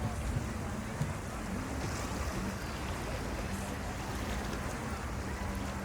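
Steady rushing outdoor noise, like wind on the microphone, with a faint low hum that comes and goes; no firework bursts.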